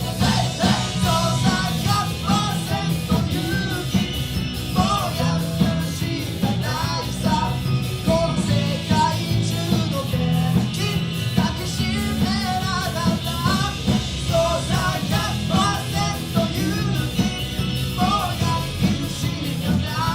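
Live rock band playing with a lead vocal: electric guitars, bass, drums and keyboard.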